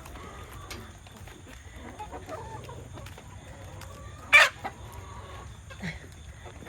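Chickens clucking softly, with one short, sudden loud sound about four seconds in.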